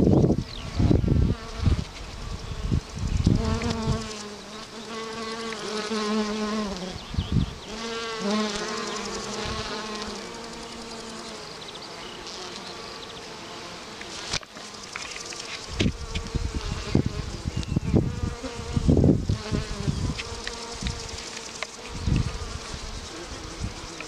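Bees buzzing as they fly close around flowering fireweed, their pitch rising and falling as they pass. Low rumbling bumps come near the start and again from about two-thirds of the way in.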